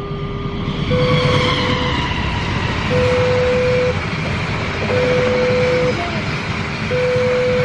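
Railway level-crossing alarm sounding its alternating two-tone warning, each tone held about a second, while a train passes with a loud rumble and a slowly falling whine.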